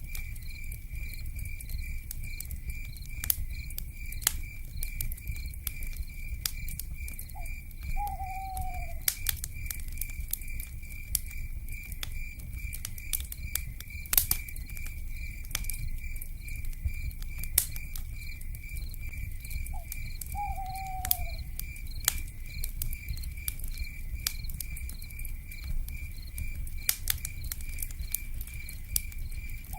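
Wood fire crackling with frequent sharp pops over a low rumble, under a steady pulsing high chirp of night insects. An owl gives a short falling hoot twice, about 8 and 21 seconds in.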